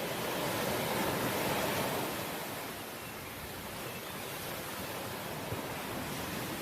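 Ocean waves washing onto a shore, a steady surf wash that swells over the first couple of seconds, eases about three seconds in, then builds again.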